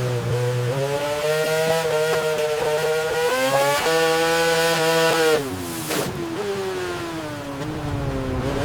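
Motorcycle engine running at high revs, the pitch holding with small steps, then dropping and falling away about five and a half seconds in before climbing again near the end.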